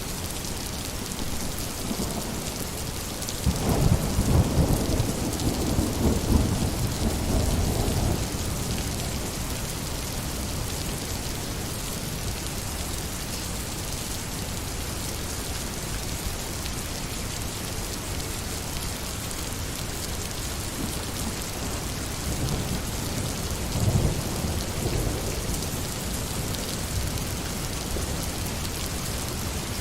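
Steady heavy rain hissing, with a rumble of thunder that rolls in about three and a half seconds in and lasts several seconds, and a shorter, fainter rumble near the end.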